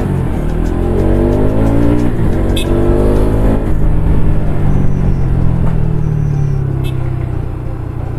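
Motorcycle engine accelerating, its pitch rising, dropping at a gear change about two seconds in and rising again, then running steadily at cruising speed.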